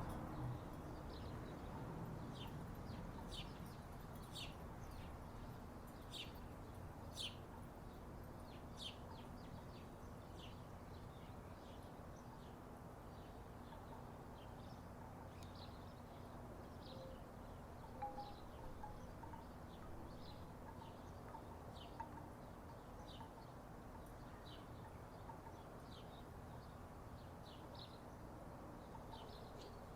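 Wooden tiki wind chimes knocking softly now and then. Short high chirps repeat about once a second over a faint steady hum.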